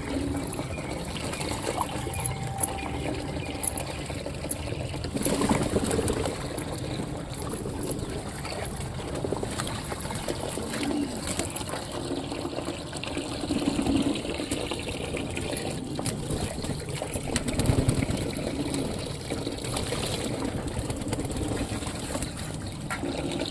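Pigeons bathing, water splashing and trickling steadily, with a few louder splashes.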